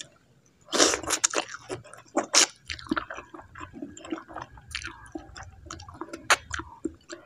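Close-miked eating of instant noodles: a slurp about a second in, then chewing with wet, squishy mouth clicks and smacks.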